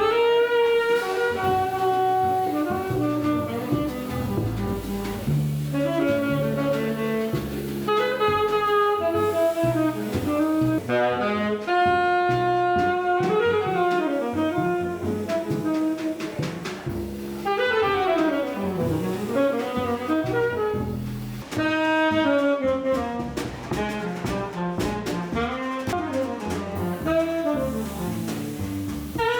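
Live jazz: a saxophone plays melodic runs and gliding phrases over a bass line that steps from note to note, with drums underneath.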